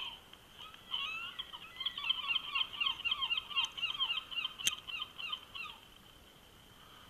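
Birds calling in a rapid run of short downward-sliding notes, about four a second, starting about a second in and stopping near the end, with a single sharp click partway through.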